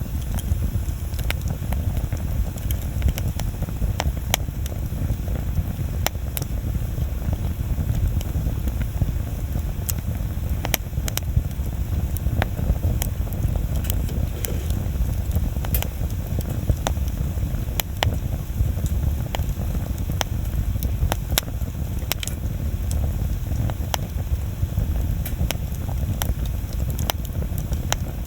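Wood bonfire burning: a steady low rush of flames with frequent sharp crackles and pops at irregular intervals.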